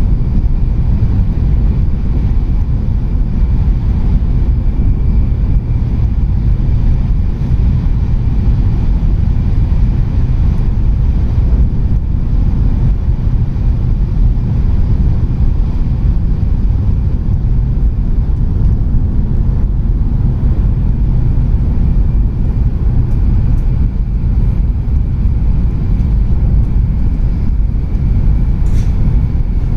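Tohoku Shinkansen train running, heard from inside the passenger cabin as a steady, loud low rumble with a faint high whine. There is a brief sharper noise near the end.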